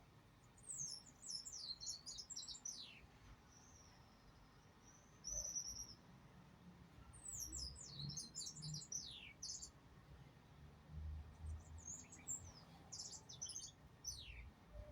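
Small bird singing in three bursts of quick, high chirps, with a thin whistled note between the first two bursts.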